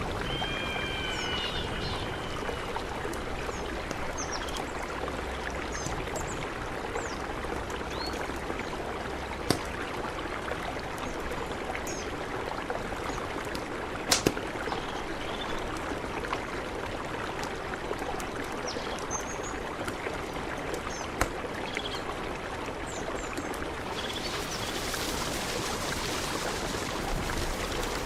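A mountain river flowing steadily, with short high chirps scattered through it and a few sharp clicks.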